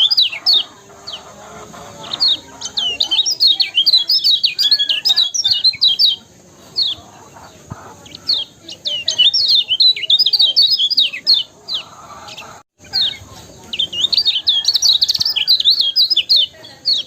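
Kecial kuning singing: bursts of fast, high chirps and trills, several in a row with short pauses between them.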